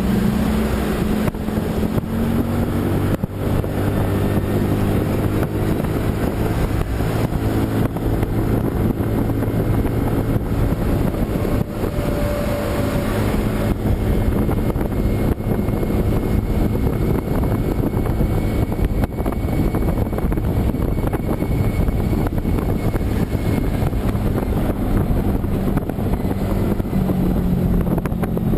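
A vehicle engine running at a steady speed under wind and road noise on the microphone, its pitch dipping slightly near the start and changing again near the end.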